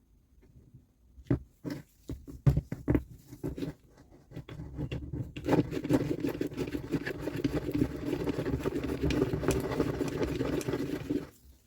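Several sharp knocks and clicks, then a steady rough rubbing or scraping for about six seconds that stops suddenly near the end, from parts being worked by hand during the repair of a reciprocating saw.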